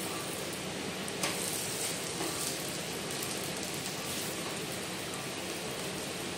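A sooji-and-potato pancake sizzling steadily in oil on a nonstick tawa. About a second in, a knock as it is flipped over with a wooden spatula, followed by brief crackling as the raw side hits the hot pan.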